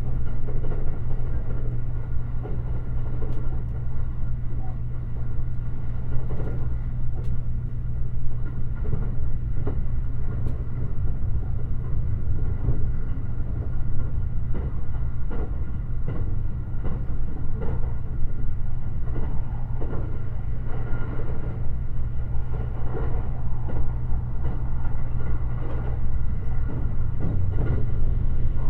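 Limited Express Shirasagi electric train running at speed, heard from inside the passenger car: a steady low rumble of wheels on rail with a constant low hum and irregular small knocks.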